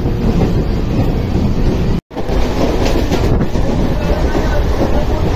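Steady rumble of a moving train, heard from on board, with wind buffeting the microphone. The sound cuts out completely for an instant about two seconds in, then resumes.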